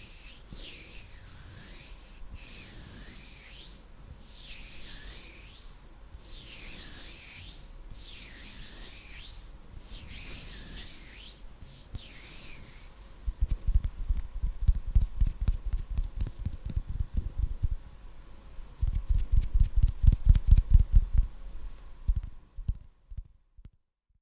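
Hands rubbing together close to the microphone in slow swishes, about one every two seconds. About thirteen seconds in this changes to fast, deep thumping flutters of fingers and hands right at the microphone, in two spells, which stop shortly before a moment of dead silence near the end.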